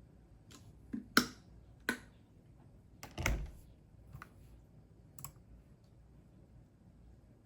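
A few scattered keystrokes on a computer keyboard, sparse and irregular, the loudest about a second in and a quick cluster a little after three seconds in.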